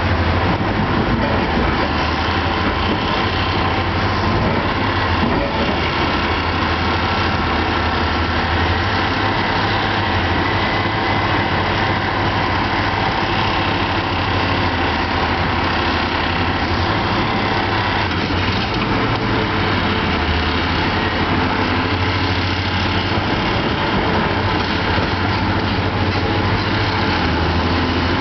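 Heavy diesel mining machinery, a hydraulic shovel and haul trucks, running steadily with a deep, even engine drone.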